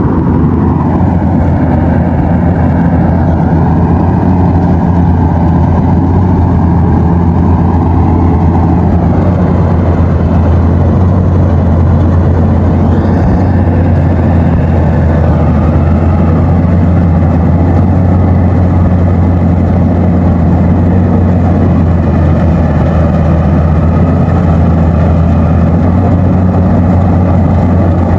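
Rice combine harvester working in a paddy field, its engine running steadily at working speed with a loud, even low hum.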